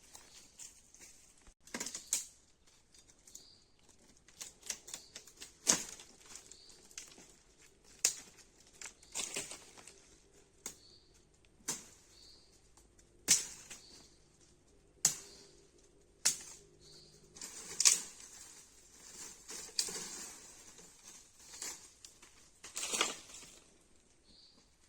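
Irregular sharp knocks and cracks, one every second or two, with brief rustling between them.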